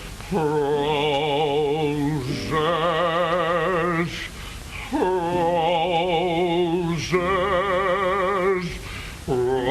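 A man singing the word 'roses' in four long held notes with a wide, wavering vibrato, each note a second or two long with short breaks between them.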